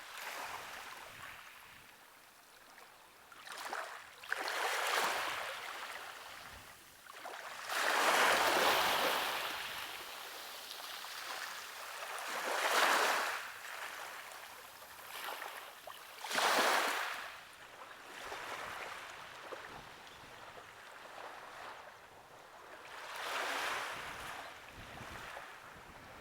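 Sea waves washing in on the shore, about five swells that rise and fall a few seconds apart.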